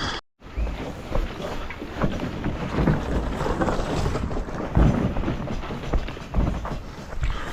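Wind buffeting the microphone in uneven low thumps over a steady rushing noise.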